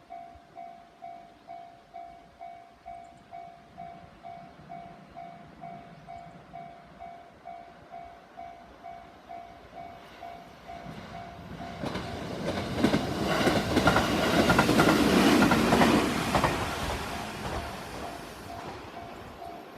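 Japanese level-crossing alarm ringing its steady electronic clang, about two strokes a second, throughout. About halfway through, the JR Central 373 series limited express Inaji, an electric multiple unit, comes up and rushes past, its wheels clattering over the rail joints, then fades away while the alarm keeps ringing.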